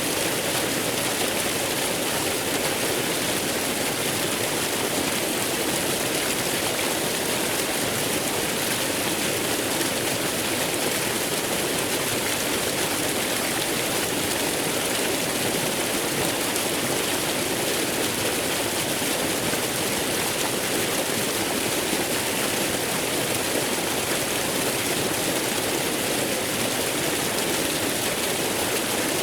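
Waterfall: steady rushing of falling water with no breaks or changes.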